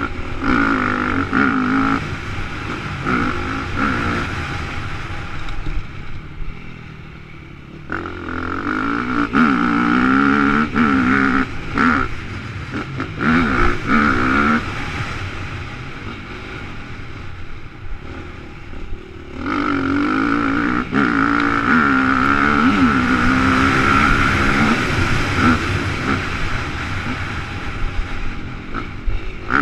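Motocross dirt bike engine at full race pace, revving hard and rising and falling in pitch through the gears, with quick throttle cuts and two longer quieter spells off the throttle.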